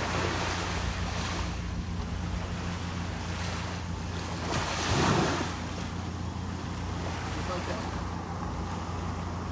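Ocean surf washing in, with the loudest wave surge about five seconds in, over a steady low rumble of wind on the microphone.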